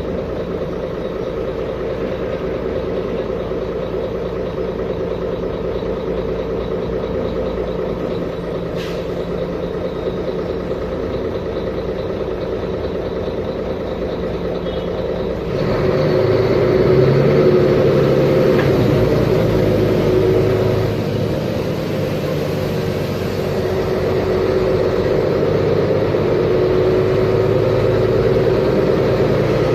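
Mercedes-Benz Conecto G articulated bus's OM457LA inline-six diesel engine running steadily. About halfway through it gets louder, with a new, deeper engine note, and stays louder.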